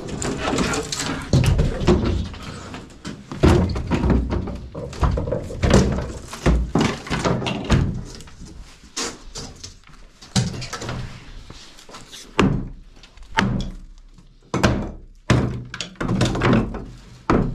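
Irregular heavy thuds and bangs, with scraping in between: old wooden pieces being knocked apart and thrown down during a teardown.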